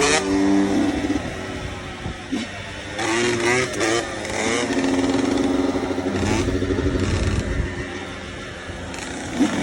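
Motocross dirt bike engine revving, its pitch rising and falling in a few quick blips about three seconds in, then running more steadily.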